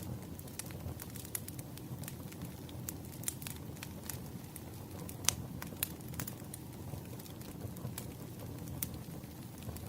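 Wood fire burning with a steady low rumble and irregular sharp crackles and pops of burning logs, one louder pop about halfway through.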